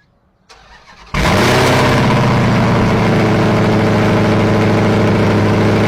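Vehicle engine cold start: the starter cranks briefly, the engine catches about a second in, and it then runs loud and steady at idle.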